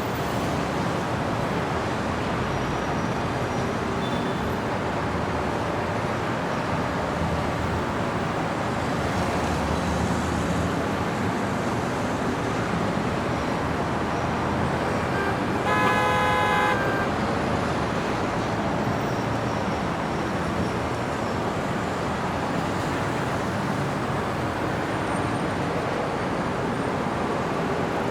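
City street traffic: a steady wash of passing cars, with one car horn sounding for about a second just after the middle.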